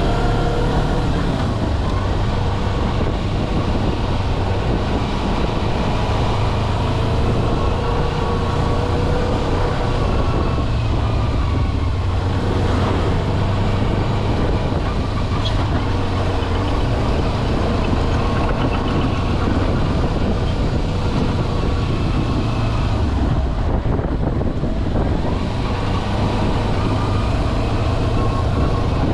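Kawasaki Versys-X 250's 249 cc parallel-twin engine running while the bike is ridden, its pitch slowly rising and falling with the throttle, over a steady rush of noise.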